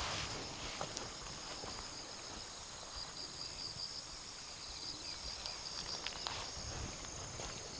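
Insects chirping in a steady, high-pitched pulsing trill, with occasional light footsteps.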